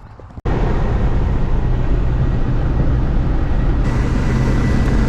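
Car driving at speed: steady engine drone and road noise that starts abruptly about half a second in. A faint high whine joins near the end.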